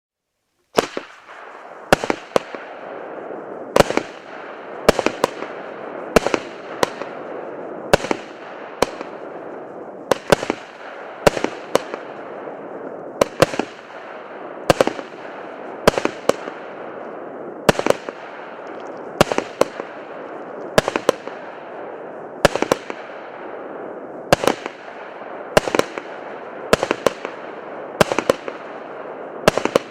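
Firework battery (FT5085) firing shot after shot: sharp bangs every half second to a second, often in close pairs, over steady crackling that starts about a second in.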